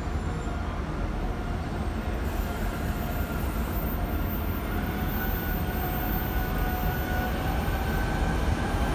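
Class 150 diesel multiple unit approaching into the platform: a steady low rumble of engine and wheels that slowly grows louder, with faint steady whines above it.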